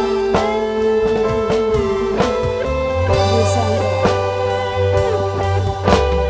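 Instrumental break of a dangdut song: an electric guitar plays a melody with bent and sliding notes over a steady bass line and drum kit.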